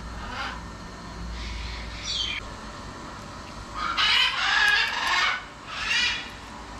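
Parrots squawking: a few short calls, then a loud run of harsh squawks about four seconds in and another near the end.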